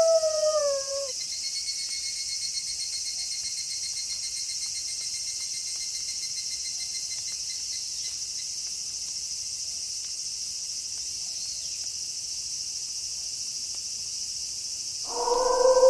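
Night-time chorus of crickets, a steady high-pitched chirring, with a nearer pulsing trill for a few seconds early on. A wolf howl dies away with a falling pitch in the first second, and another wolf howl starts near the end.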